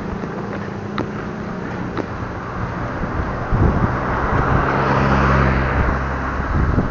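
A car passing by: engine hum and tyre noise build from about three and a half seconds in, peak around five seconds, then fade near the end.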